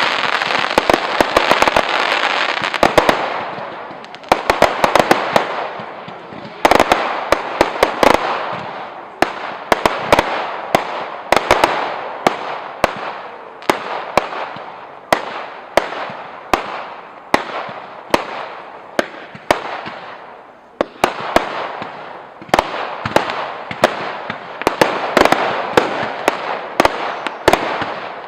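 Fireworks display: a rapid string of sharp bangs over a constant crackle. The crackle eases off about 4 seconds in and again about 20 seconds in, then builds back up.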